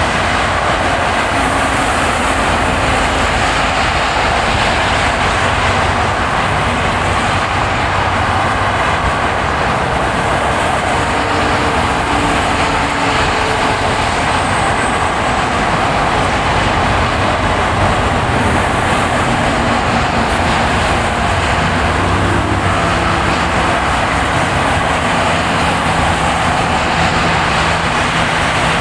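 Steady road noise of a car driving on a winter road: a continuous rush of tyre and engine noise with a faint low hum that shifts slightly in pitch.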